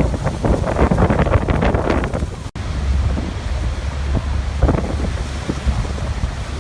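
Waterfall rushing, with heavy wind buffeting the microphone. The sound cuts out for an instant about two and a half seconds in.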